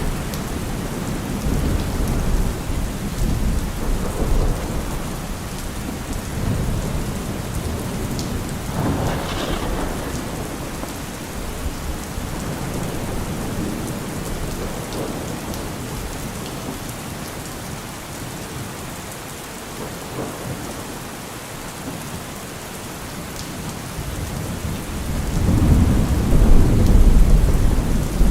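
Steady rain falling, with rolling thunder rumbling and fading. The loudest, longest roll of thunder swells up about three-quarters of the way through.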